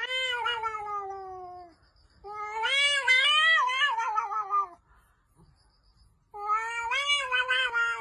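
A domestic cat yowling: three long, drawn-out meows with gaps between. The first slides down in pitch and the second wavers up and down.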